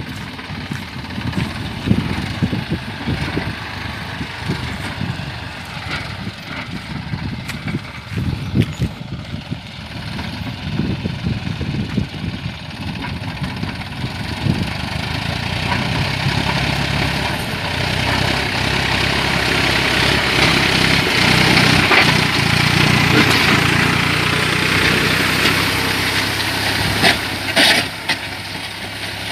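New Holland 49 hp, 2700 cc tractor's diesel engine running steadily under load while pulling a six-disc plough, with irregular knocks and clatter. It grows louder from about halfway through and eases a little near the end.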